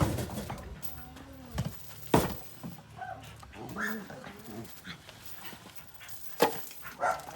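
A dog whimpering and yipping in short cries, with two sharp knocks about four seconds apart.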